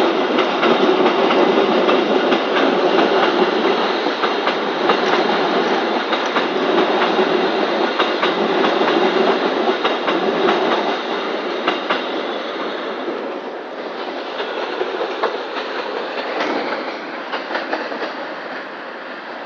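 Train passing close by: a steady rolling rumble with the clatter of wheels over the rails. It eases off about two thirds of the way through.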